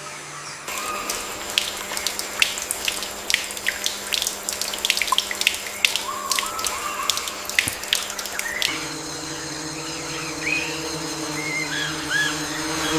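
Water splashing and dripping in quick, irregular bursts. About nine seconds in it gives way to a steady outdoor bed with short chirping calls.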